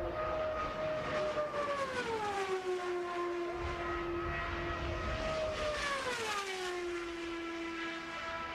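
Indy car's turbocharged Ford-Cosworth XB V8 at full throttle, passing by twice with its pitch dropping steeply, by nearly an octave each time, and holding steady in between.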